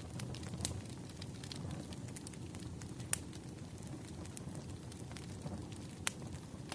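Burning wood fire crackling: a steady low rumble with sharp pops scattered through it, the loudest about three seconds in and again near six seconds.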